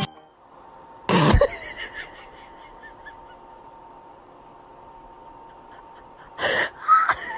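A pet sneezing: three short, sharp bursts, one about a second in and two close together near the end, over quiet room noise.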